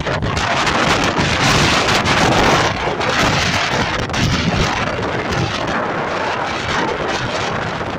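Strong wind buffeting the microphone: a loud, dense rush of noise, swelling a little in the first few seconds and then holding steady.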